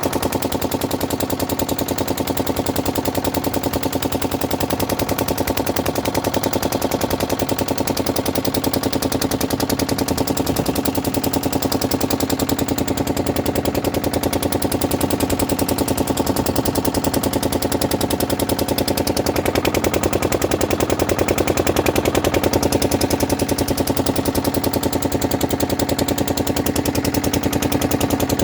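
An engine running steadily with a rapid, even chugging beat that never changes speed.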